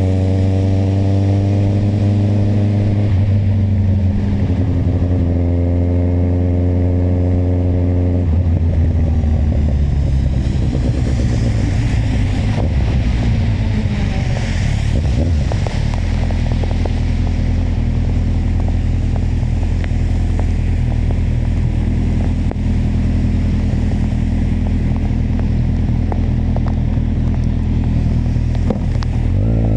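Kawasaki motorcycle engine pulling up through the revs, dropping at a gear change about three seconds in and climbing again. It then eases off into a rougher, noisier stretch with a rush of hiss in the middle, settles to a low steady note, and picks up again at the very end.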